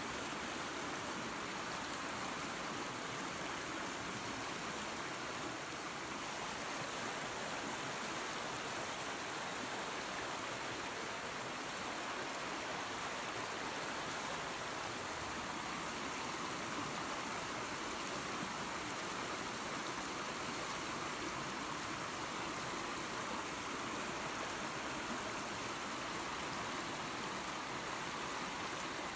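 Small waterfall and creek, water running and splashing steadily.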